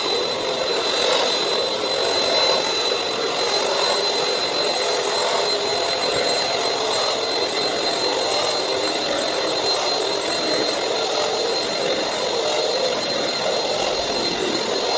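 SilverCrest SMS 300 A1 handheld anti-mite vacuum cleaner running steadily: a rushing hiss of air with a thin, high, steady whine from its motor.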